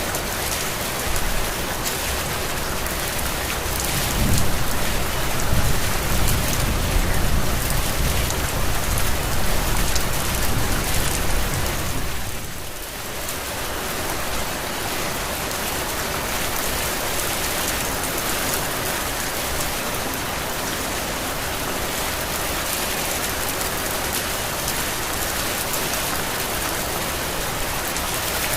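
Heavy rain falling steadily. A low rumble swells under it for several seconds in the first half, and the rain briefly dips about twelve seconds in.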